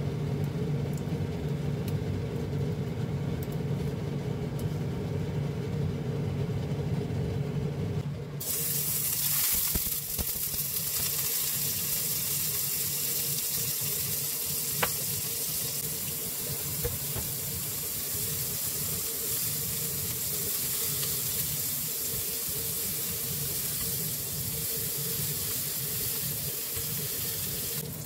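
A steady low hum for about the first eight seconds, then an abrupt change to shrimp sizzling in oil in a small square frying pan, an even hiss with a single tick about halfway through.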